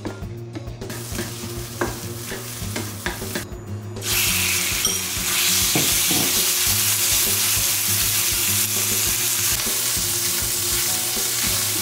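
Spatula tapping and scraping in a nonstick frying pan with light frying in oil. About four seconds in, a loud, steady sizzle of chicken pieces frying in hot oil starts suddenly, with a spoon and spatula stirring and turning them.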